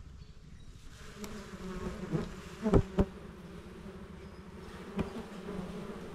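A swarm of small honeybees buzzing around their open comb; the hum swells about a second in and then holds steady. Two sharp knocks near the middle, the loudest sounds here, and a lighter one later.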